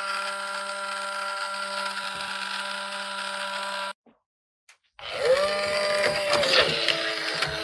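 A toy's small electric mechanism whirring with a steady hum-like pitch: it rises in pitch as it spins up, runs for about four seconds and cuts off suddenly, then starts again about a second later with clattering and clicks over the whir.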